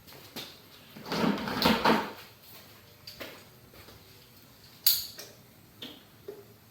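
Hand tools being handled and set down: a rustling clatter about a second in, then a sharp click a little before the five-second mark and a few lighter knocks.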